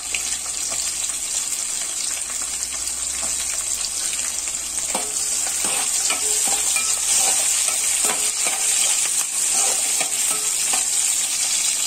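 Chopped ginger, garlic and slit green chillies sizzling steadily in hot oil in a metal pan. A spatula stirs them, scraping against the pan many times.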